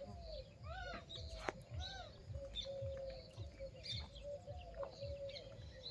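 Birds calling: a repeated arching call about once a second, with scattered higher chirps. Underneath run soft low thuds, about two to three a second.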